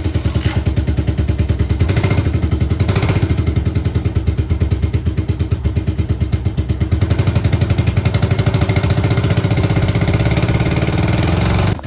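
Kawasaki KLX dirt bike's single-cylinder four-stroke engine running steadily just after starting, warming up, with a fast, even exhaust beat. Its level drops sharply near the end.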